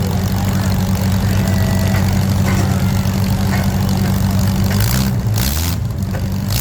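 Compact derby cars' engines idling in a steady low drone. About five seconds in, the pitch shifts as an engine is revved, with a couple of short rushes of noise.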